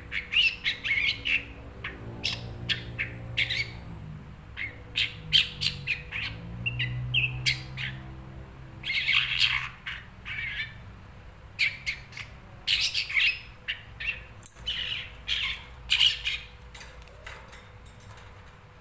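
Long-tailed shrike (cendet) calling: rapid bouts of short, harsh, chattering notes with brief pauses between bouts.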